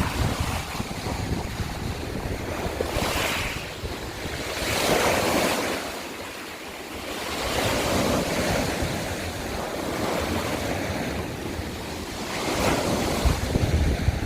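Sea waves breaking and washing over a shore of broken scallop shells, swelling in surges every few seconds. Wind rumbles on the microphone.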